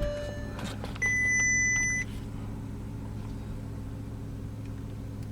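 Volkswagen Phaeton's 6.0-litre W12 idling steadily, with a single electronic warning beep lasting about a second, starting about a second in.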